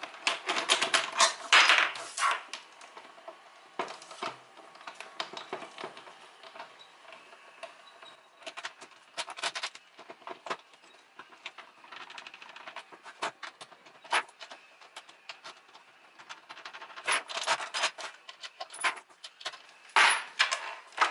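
Irregular clicks, clinks and rattles of hand disassembly of an Alesis electronic drum pad: screws and small metal and plastic parts being handled and set down, with brief scraping.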